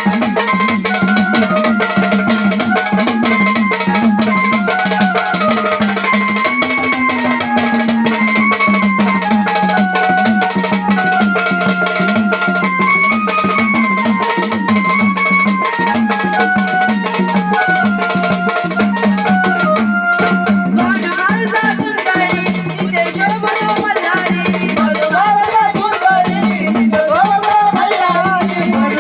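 Marathi jagaran-gondhal devotional song to Malhari (Khandoba): an instrumental melody of held, stepping notes over a steady drone and drums, with singing coming in about 22 seconds in.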